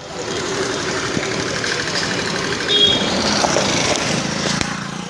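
A motor vehicle engine running, with a brief high tone a little past halfway.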